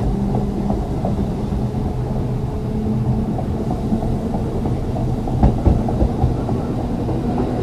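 Ex-Liverpool Corporation tram 869 running under power, its electric traction motors giving a steady low hum over the rumble of steel wheels on rail, with a few knocks a little past halfway.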